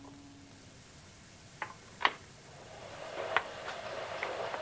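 A few short, sharp ticks, the loudest about two seconds in, over a faint steady hum that starts about three seconds in.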